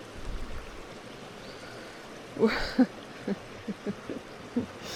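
Steady rushing of a flowing stream, with a few short, faint pitched sounds over it from about halfway through.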